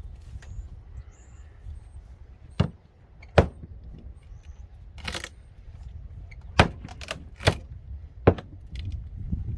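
Demolition work on old wall framing: about five sharp knocks at uneven intervals, as of a tool striking wood, with a short rasp about halfway through, over a steady low rumble.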